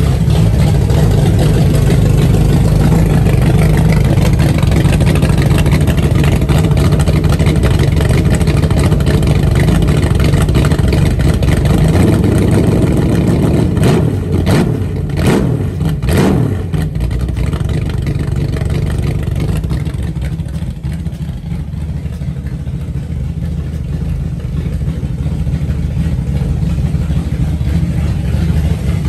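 360 stroker V8 engine running steadily, with three brief sharp bursts about halfway through, after which it runs somewhat quieter for a while before picking back up.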